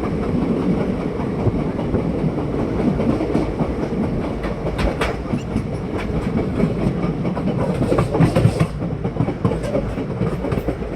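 ICF passenger coach running along the track: a steady rumble with the wheels clattering over rail joints, and sharper clusters of clacks about five seconds in and again about eight seconds in.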